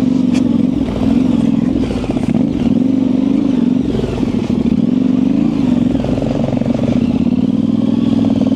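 Yamaha Ténéré 700 parallel-twin engine through an aftermarket high exhaust, ridden slowly off-road with the throttle opening and closing so the engine note wavers up and down.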